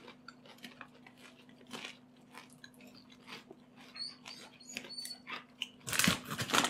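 Popcorn being chewed and crunched, with small scattered crackles. Near the end a snack bag crinkles louder as a hand reaches into it.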